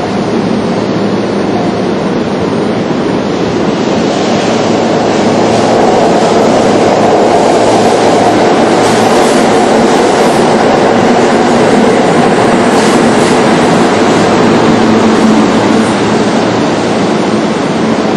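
Kintetsu limited express train running through an underground station without stopping, its running noise echoing loudly in the enclosed platform. The sound swells about four seconds in and eases a little near the end.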